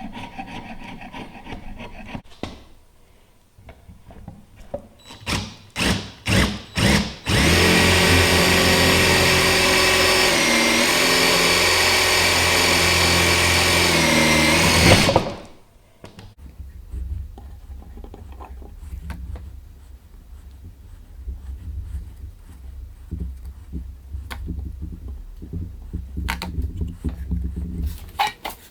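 A handheld power drill: the trigger is blipped several times, then the drill runs steadily for about seven seconds, slowing briefly once partway through, and stops. Before it there is a short stretch of scraping on wood, and after it a few light clicks and knocks.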